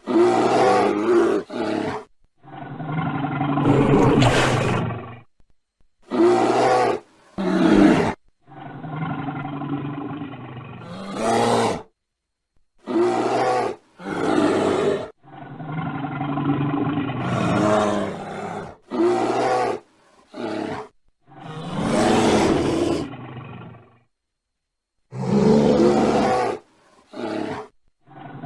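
Bear growling and roaring: about a dozen separate deep, rough growls, some short and some held for several seconds, each followed by a short silence.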